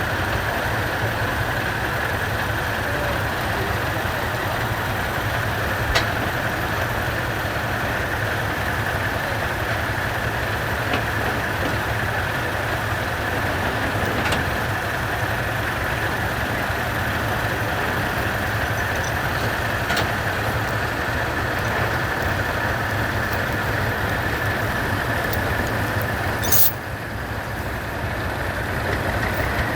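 Heavy military-truck diesel engine running steadily, with a few faint clicks and a short sharp sound about 27 seconds in, after which it is briefly a little quieter.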